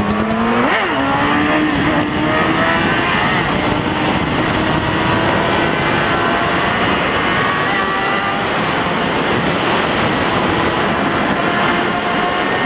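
Superbike engine accelerating hard: a gear change about a second in, then a long, slow rise in pitch as it keeps pulling. A heavy rushing noise runs under it.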